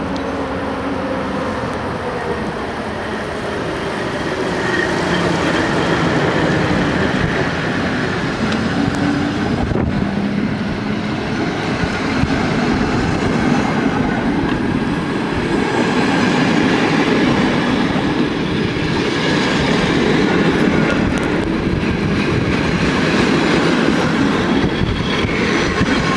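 EU07 electric locomotive and its train of passenger coaches pulling out close by. A falling whine is heard as the locomotive passes in the first few seconds, then the steady rolling noise of the coaches going past, louder from about four seconds in.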